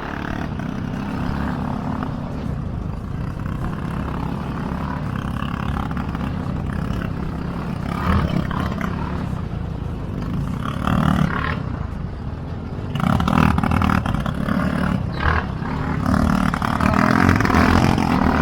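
A motor vehicle's engine running steadily, with louder noisy surges now and then.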